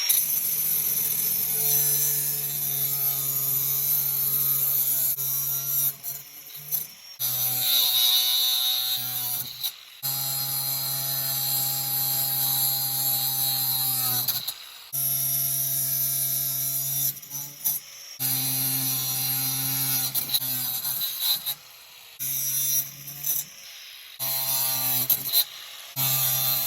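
Electric power drill running in repeated bursts, its motor whining at a steady pitch and stopping and starting several times.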